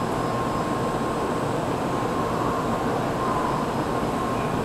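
A Tokaido Shinkansen train standing still at the platform with its air-conditioning and onboard equipment running: a steady even whir with a faint constant whine, because the train is held and cannot depart.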